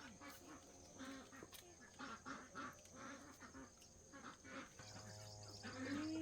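Faint, repeated short quacking calls of ducks, about two a second, over a steady high chirring of insects. A low hum comes in near the end.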